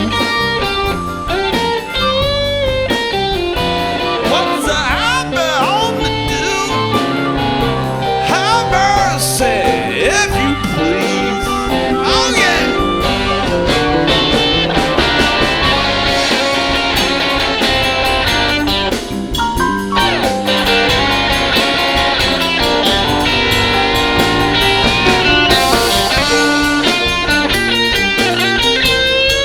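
Blues band playing a song live in a studio, with guitar to the fore and many bent notes.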